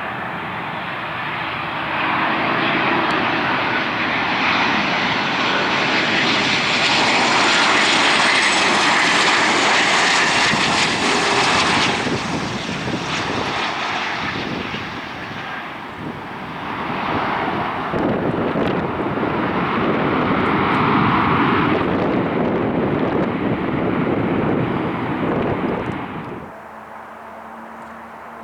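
Boeing 737-800's CFM56 jet engines on a landing pass, a loud rushing jet noise with a high whine that is loudest about eight to twelve seconds in. After a brief dip it rises again for a second loud stretch, then falls away suddenly near the end.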